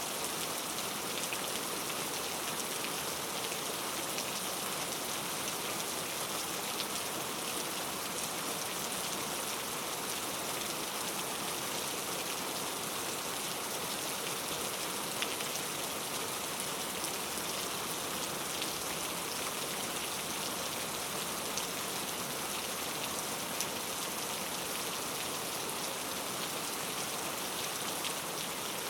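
Steady rain falling on a forest, an even hiss with scattered individual drops ticking through it.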